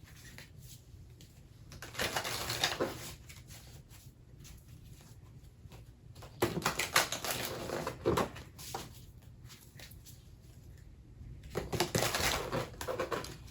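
A deck of oracle cards being shuffled and handled in the hands, in three rustling, clattering spells.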